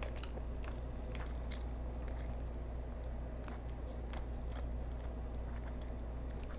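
A person chewing and biting mouthfuls of pan-cooked banded rudderfish fillet: irregular soft mouth clicks and smacks.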